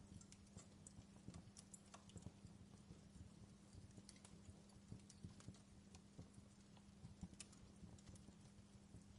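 Faint crackling of a wood fire in a fireplace: scattered, irregular pops and snaps over a low steady hum.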